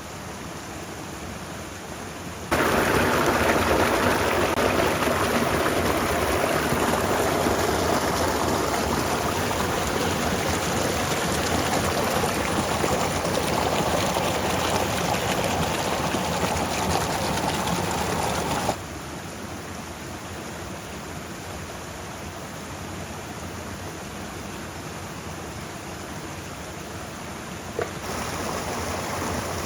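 Steady rushing noise of the stormy outdoors, with no distinct events. It jumps abruptly louder a couple of seconds in, drops back sharply about two-thirds of the way through, and rises again near the end.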